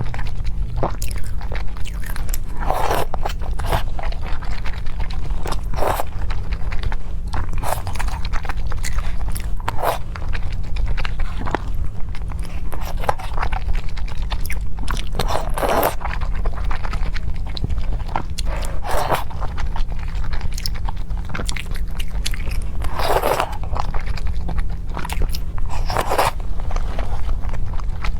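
A person biting and chewing food, with separate bites and crunches every one to three seconds over a steady low hum.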